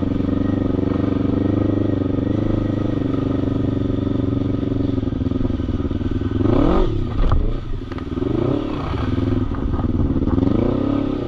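Quad bike (ATV) engine running steadily, then revved in quick rising and falling throttle blips about two thirds of the way in, with a couple of sharp knocks among them, and revved again near the end.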